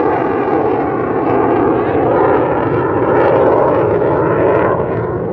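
Jet noise from a low-flying F-22 Raptor's twin turbofan engines, a loud steady rushing sound.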